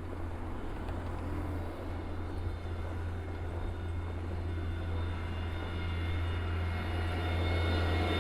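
A steady low mechanical hum with several higher whining tones over it, slowly growing louder, like a large engine or machine running.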